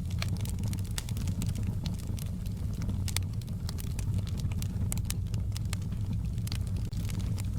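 Wood campfire crackling, with many small sharp pops and snaps at an irregular pace over a steady low rumble of burning.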